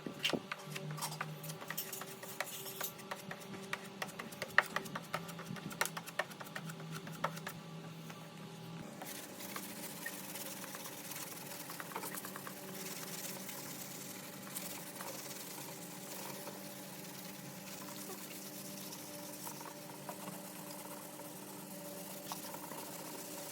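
Workshop work noise: a run of quick light clicks and taps over a steady machine hum, changing about nine seconds in to a steady hiss over the same hum.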